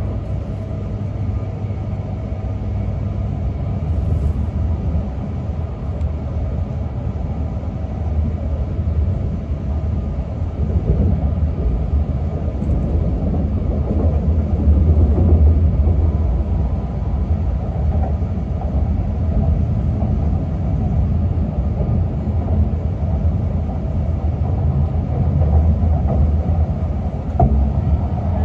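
E6 series Komachi Shinkansen train running, heard from inside the passenger car: a steady low rumble of wheels on track that swells and eases a little.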